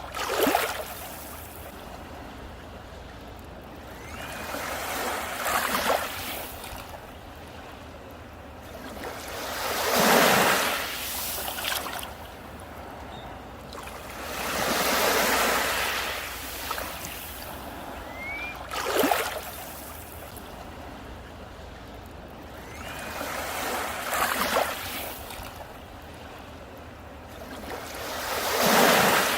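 Sea waves breaking on a beach, a wave swelling in and washing up about every four to five seconds, some landing with a sharp crash.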